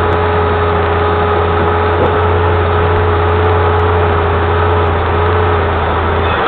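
A motor running steadily with a constant low hum and a faint steady whine, stopping abruptly at the end.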